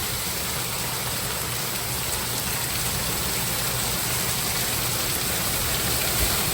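Heavy rain from a severe thunderstorm pouring down in a steady, dense downpour.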